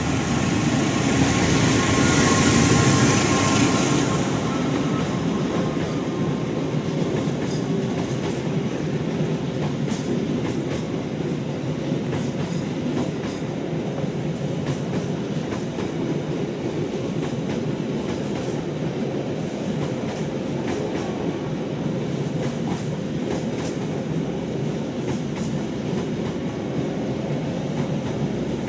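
Express passenger train running through a station without stopping. Its CC 206 diesel-electric locomotive passes first, loudest about two to four seconds in. Then a long rake of coaches rolls by with a steady rumble and the clickety-clack of wheels over rail joints.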